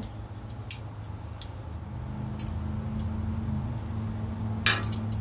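Bolts on a bandsaw's cast-iron riser block being tightened with a hand tool: a few sparse light metal clicks and clinks, with a louder cluster near the end, over a steady low hum.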